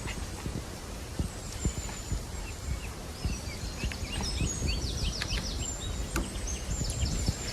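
Birds chirping and trilling over a steady low rumble of background noise, the chirps thickening from a few seconds in.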